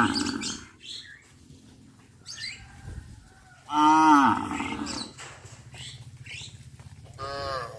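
Cattle mooing: a moo tails off at the start, a loud drawn-out moo comes about four seconds in, and another begins near the end.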